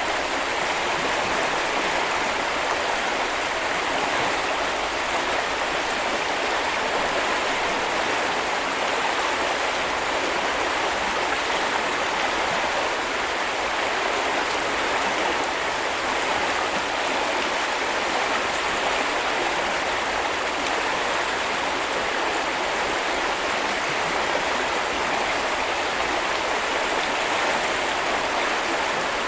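Shallow river or brook flowing over stones, a steady rushing and babbling of water.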